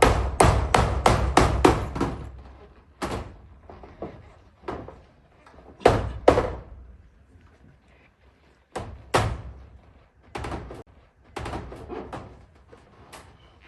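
Hammering on a zinc roof, most likely nails being driven through the corrugated sheets. A quick run of blows about four a second opens, then slower, scattered single and paired blows follow.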